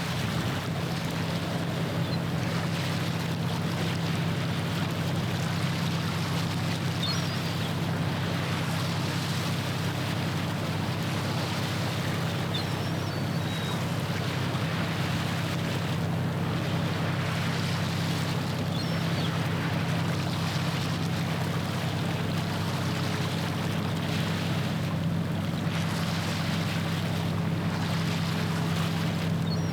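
Passing ship's diesel engine running with a steady low hum, over a constant rush of water and wind.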